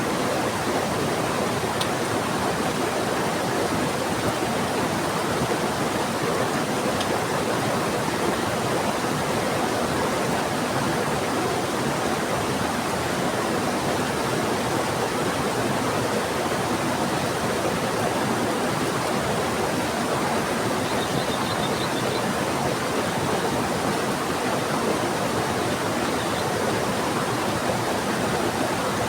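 Steady rush of a fast-flowing river mixed with heavy rain, an even, unbroken wash of water noise.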